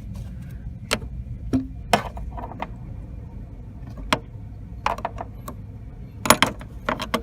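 Irregular metallic clicks and clinks of hand tools and hardware on the Porsche 914's clutch cable during adjustment, a cluster of them near the end, over a steady low hum.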